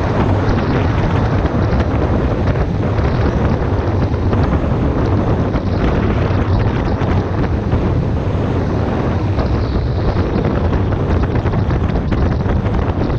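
Heavy wind buffeting the microphone over a steady low rumble, as from a vehicle on the move.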